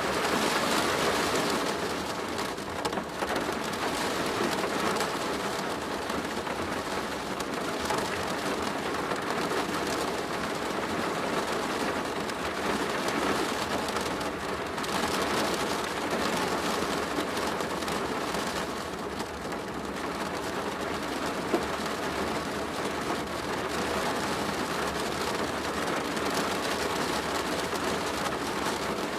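Steady rain drumming on a plastic roof, a dense, even patter of drops. One louder sharp tap comes about three quarters of the way through.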